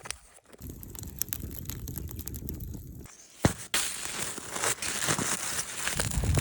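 Crinkling and tearing noises with scattered sharp crackles and clicks, in short stretches that change abruptly about half a second in, at about three seconds, and again just before four seconds.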